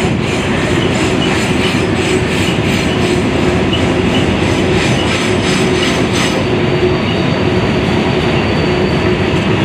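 Freight train of enclosed autorack cars rolling past with a steady rumble. Its wheels click over the rail joints about twice a second until about six seconds in, and a thin wheel squeal sounds from the cars rounding the curve.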